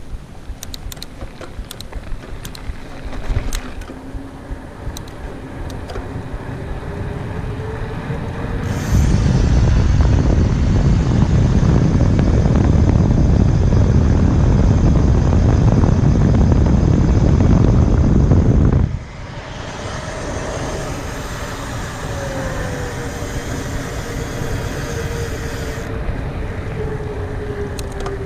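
Riding a mountain bike at speed, with wind rushing over the camera's microphone. The rush turns loud and heavy about nine seconds in and drops off suddenly about ten seconds later, with light clicks near the start and a faint hum either side.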